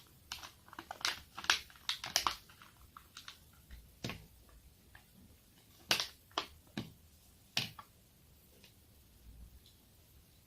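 Crackling and clicking of a toy's packaging being opened and handled: a quick run of sharp crackles over the first couple of seconds, then a few separate clicks and snaps.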